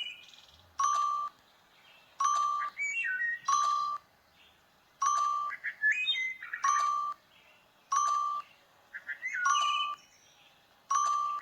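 A series of short electronic chime notes, about nine of them, each a single held tone of about half a second, with quick chirping, bird-like twitters in between.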